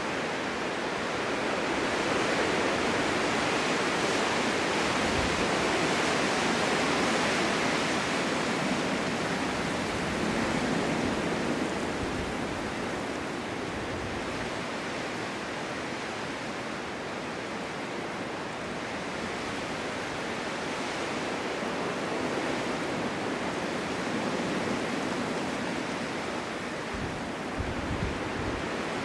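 Wind blowing steadily through a snowstorm, a dense rushing hiss that swells in gusts in the first few seconds and eases off after about twelve seconds.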